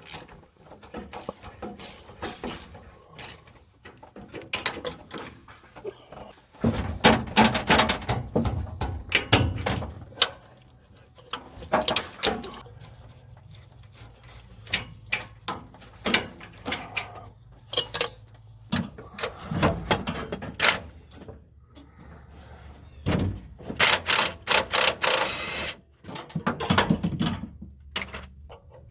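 Hand tools and metal parts clanking, knocking and rattling as an engine bay is stripped for an engine pull, with irregular bursts of clatter over a low steady hum.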